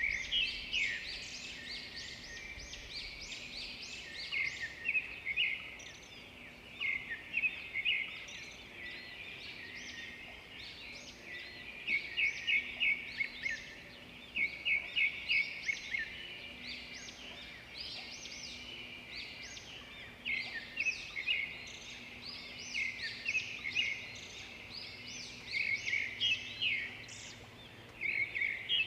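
Songbirds chirping and singing together: many short, high calls overlapping without a break, with runs of quick repeated notes here and there.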